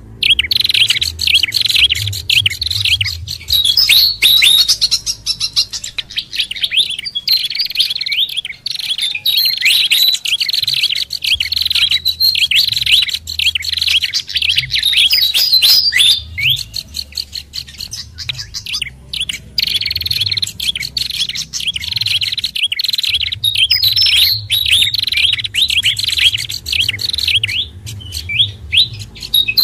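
A dense, busy chorus of small songbirds chirping and twittering in quick, overlapping notes: a bird-lure recording mixing sikatan kipas (pied fantail), pelanduk bukit and prenjak kepala merah calls. A low hum sits under the calls, dropping out now and then.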